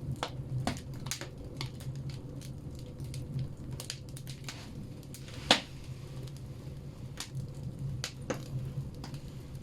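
Firewood logs burning in a wood stove, crackling with irregular pops and one loud snap about five and a half seconds in, over a low steady rumble.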